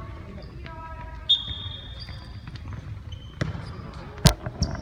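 Indoor korfball play: sneakers squeak on the court floor and the ball thumps several times, the loudest thump near the end, with players' short calls in the hall.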